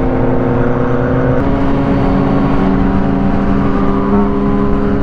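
Motorcycle engine running at steady revs, holding one low pitch that shifts slightly about a second and a half in.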